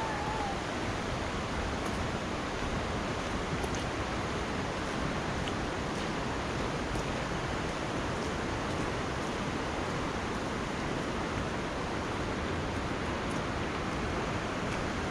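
Steady rushing of a river running fast over rocks.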